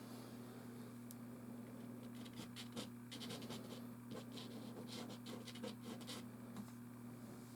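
Soft pastel stick scratching across canvas in a run of short, quick strokes from about two to six seconds in, fainter strokes before that, over a low steady hum.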